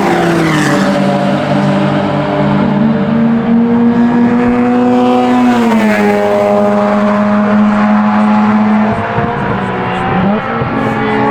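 Modified Mazda RX8's rotary engine running hard on track, heard onboard. Its note holds steady, drops in pitch at the start and again about six seconds in, and gives a short blip near the end.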